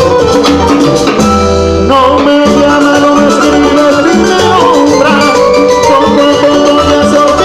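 Live Latin dance band playing son/salsa through a loud PA: bass, percussion with maracas, and melodic instrument lines, with no singing.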